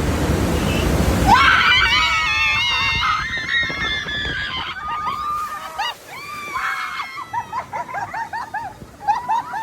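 Rushing water for about a second, then several raft riders screaming together as they hit the water and get drenched. The screams thin out into short, repeated squeals.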